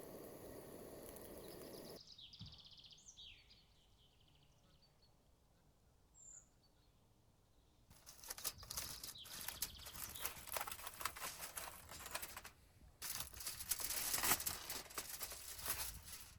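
A few short bird chirps in the woods, then, after a quiet stretch, loud, dense close-up crackling and rustling from about a third of the way in, with a brief pause partway through.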